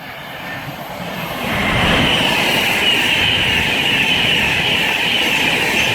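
Class 390 Pendolino electric train passing through at speed: a rushing noise that builds over the first two seconds and then stays loud, with a high hiss over it.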